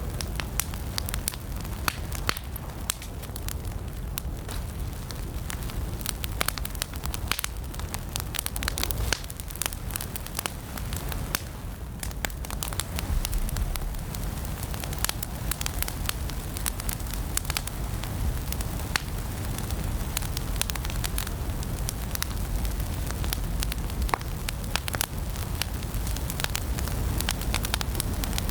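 Wood fire burning in a fireplace: steady crackling with many sharp pops scattered irregularly throughout, over a low rumble of the flames.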